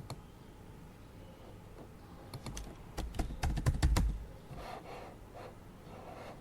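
A quick burst of typing on a computer keyboard, rapid key clicks for about two seconds starting a little over two seconds in, followed by a few softer scuffs.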